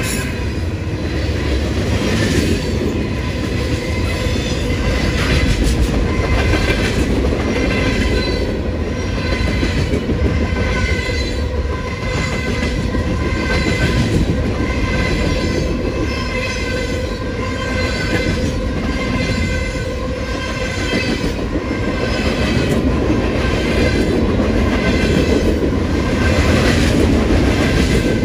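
Freight cars of a long CSX manifest train rolling past: a continuous rumble of steel wheels on rail, with evenly repeating clicks as the wheelsets cross rail joints and a thin steady squeal from the wheels.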